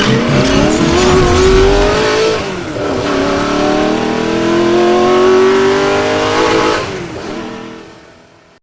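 Car engine accelerating hard: its pitch climbs, drops at a gear change about two and a half seconds in, climbs again through the next gear, then fades out near the end.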